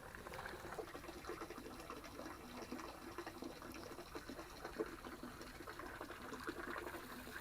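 Faint trickling, splashing water of a backyard pond.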